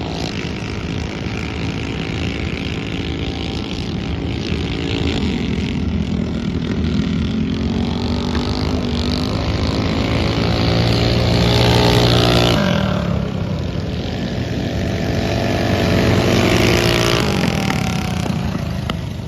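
Several racing mini bike engines running hard on a dirt flat track, their notes overlapping. The pitch climbs and drops sharply about twelve seconds in, then swells and falls again near the end as bikes go by.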